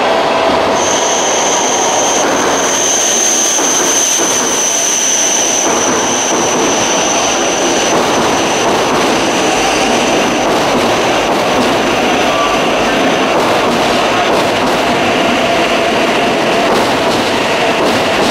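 E7 series Shinkansen train pulling into a station platform, its cars rolling past with steady running noise. A high, thin squeal starts about a second in and fades out after several seconds.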